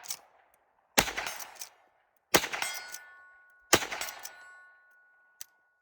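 .357 Magnum lever-action rifle firing three shots about a second and a half apart, each sharp report trailing off in echo. A faint steady ring lingers after the second shot.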